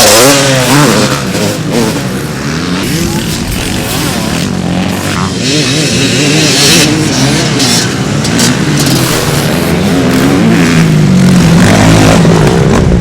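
Motocross motorcycle engines revving, their pitch rising and falling over and over as the bikes accelerate and shift. It is loudest right at the start, eases off, then builds again toward the end.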